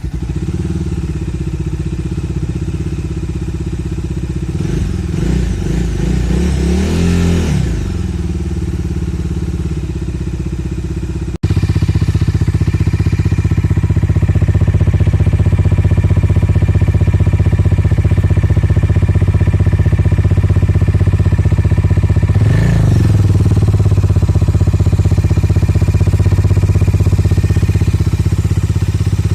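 Bajaj Dominar 250 motorcycle's single-cylinder engine idling through its exhaust, revved up and back down twice: a longer rev a few seconds in and a short blip past the twenty-second mark. The sound cuts out for an instant about eleven seconds in and comes back louder.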